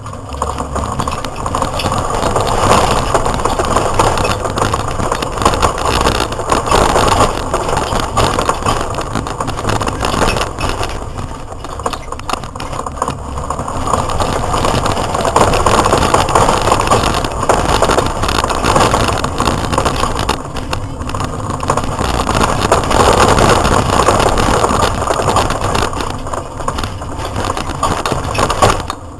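Opel Astra 2.0 16V GSi's four-cylinder engine driven hard, heard from inside the cabin. It rises and falls repeatedly as the driver accelerates and lifts off through the corners.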